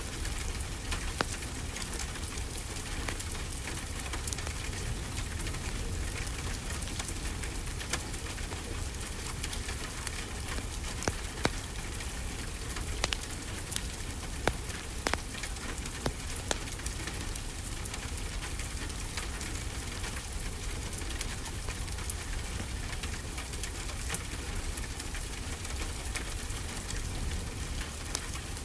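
Steady rainfall, an even hiss, with a crackling fireplace fire adding scattered sharp pops, several clustered in the middle.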